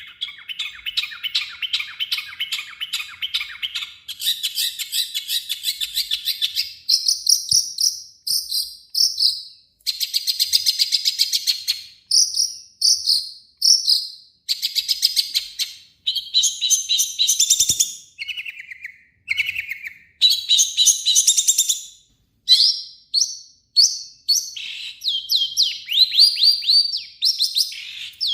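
Long-tailed shrike singing vigorously: a harsh, rapid chattering song in phrases of one to two seconds with short gaps between them, and a couple of lower downslurred notes a little past the middle.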